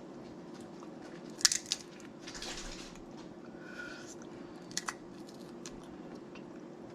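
Snow crab leg shells being cracked and eaten: sharp snaps about a second and a half in and again near five seconds, with chewing and sucking in between.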